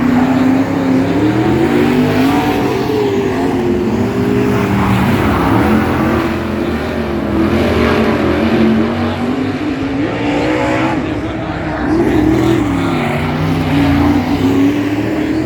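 Several speedway race cars' engines running laps together, their pitches rising and falling as the drivers lift and get back on the throttle.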